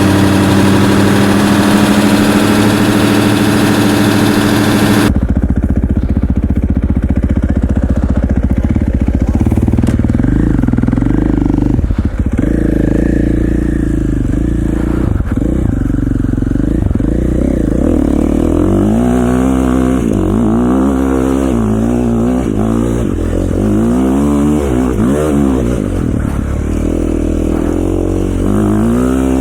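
An engine idling steadily for about five seconds, then a KTM 450 XC-F's single-cylinder four-stroke engine being ridden. In the second half its pitch rises and falls again and again as the throttle is opened and closed.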